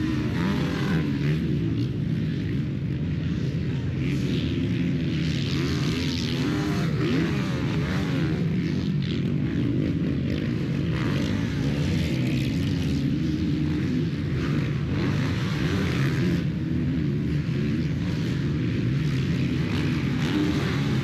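A pack of 450-class motocross bikes racing, many engines revving up and down at once in a dense, steady din.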